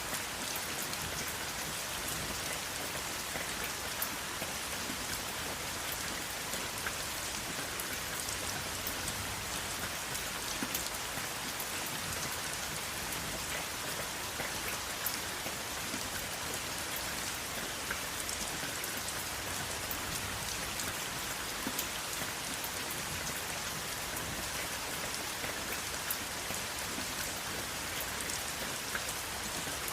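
Steady rain falling, with a continuous hiss and many small, sharp drop ticks scattered through it; no thunder.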